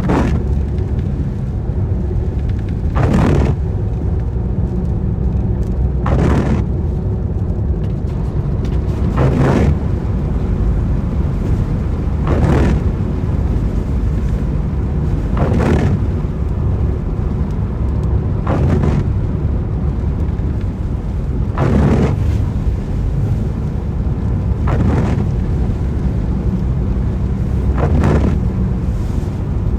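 Car driving in the rain with a steady low road-and-engine rumble. A windscreen wiper sweeps across the wet glass with a short swish about every three seconds, on an intermittent setting.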